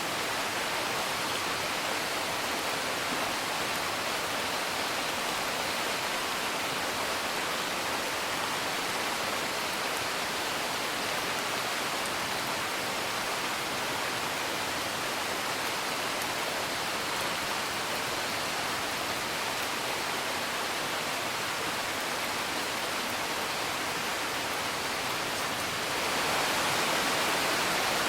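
Steady rain falling, with a fire faintly crackling. The rain swells slightly louder near the end.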